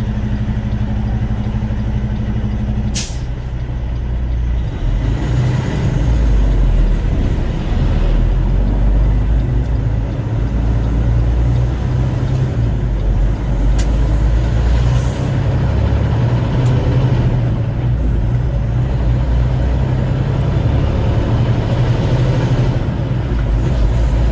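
Semi truck's diesel engine heard from inside the cab, with a short sharp hiss about three seconds in; from about five seconds in the engine and road noise grow louder as the truck drives on.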